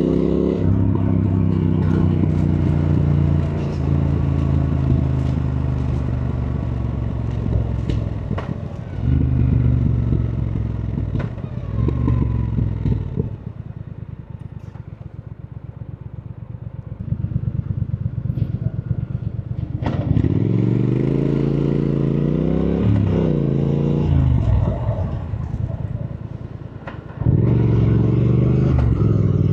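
Triumph Thruxton R's 1200 cc parallel-twin engine on the move: it runs steadily under throttle, drops to a quieter, evenly pulsing run off the throttle for several seconds in the middle, then rises in pitch as it pulls again and jumps suddenly louder near the end.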